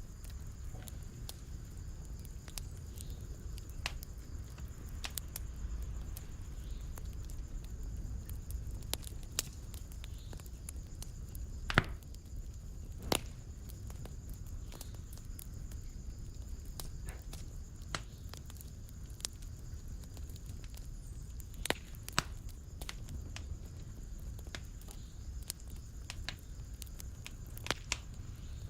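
Wood fire burning in a fireplace: a steady low rumble with scattered sharp crackles and pops, the loudest pops about twelve seconds in and again a little after twenty seconds.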